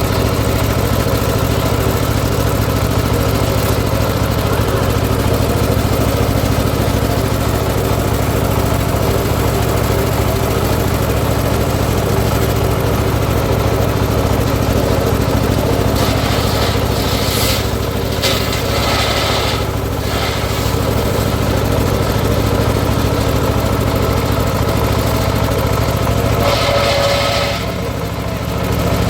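Engine driving a homemade circular sawmill rig runs steadily. In the second half, several short hissing bursts rise over the engine.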